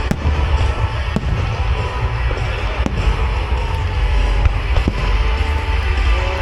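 Large fireworks display going off: a continuous deep rumble of booming shells, with sharp bangs every second or two, over music set to the show.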